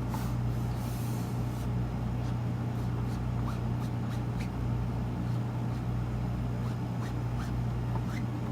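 A steady low hum, with a few faint light taps.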